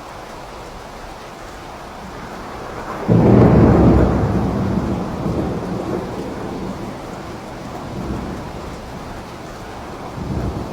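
Steady rain with a loud clap of thunder about three seconds in that rumbles and fades over the next few seconds, followed by two fainter rumbles near the end.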